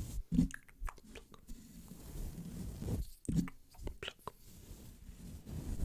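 Close-miked ASMR wet mouth sounds: sharp clicks and smacks in short clusters, layered over a low rubbing of the microphone being brushed and scratched.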